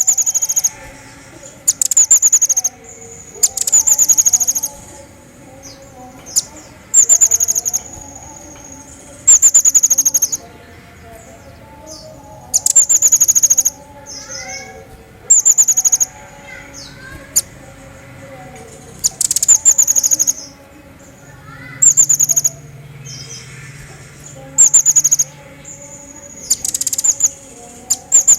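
Pygmy bushtit (cerecet jawa) calling: short, loud bursts of rapid high-pitched chattering trills that repeat about every two to three seconds. Fainter bird notes sound in the gaps between the bursts.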